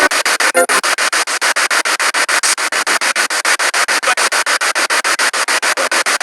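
Spirit box radio sweeping through the stations: loud static chopped into rapid even pulses, about eight a second, with a brief snatch of pitched broadcast sound just after the start.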